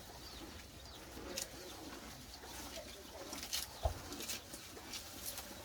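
Birds calling, with short high falling chirps and lower cooing notes, and a single dull thump about four seconds in.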